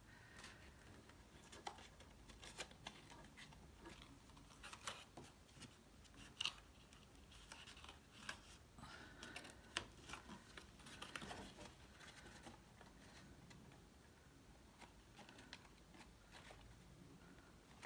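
Cardstock being handled while its tabs are folded in and glued: scattered small clicks and faint rustles, very quiet overall.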